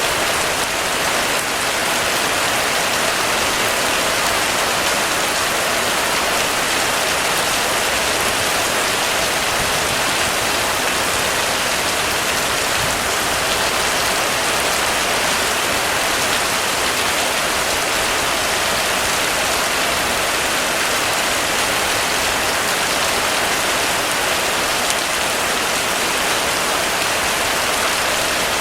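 Heavy rain falling steadily on hard surfaces, a dense even hiss of drops without pause.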